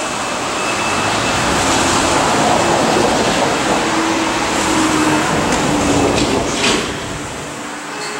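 Electric train running at the station, a loud steady rumble and hiss with a faint hum, easing off about seven seconds in.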